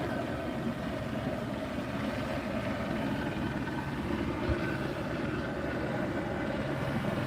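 Steady drone of a vehicle running, with faint held tones and no sudden sounds.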